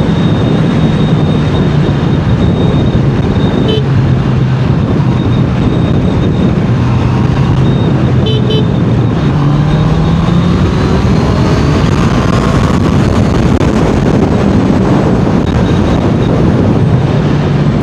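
Honda CBR650R inline-four motorcycle engine running at road speed, its pitch stepping and climbing as it accelerates through the gears, with heavy wind rushing over the microphone. Short horn toots sound about 4 seconds in and again, doubled, about 8 seconds in.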